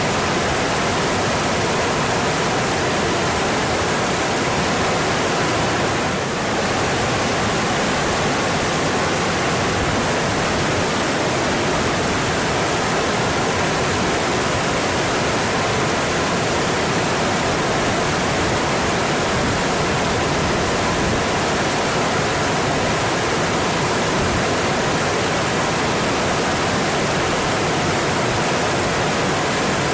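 Mountain stream rushing steadily over rocks, a dense, unbroken noise of running water.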